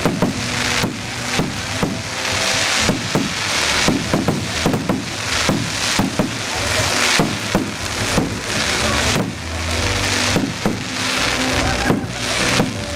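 Fireworks display going off: a rapid, irregular run of sharp bangs and crackling bursts over a constant hiss, with steady musical tones underneath.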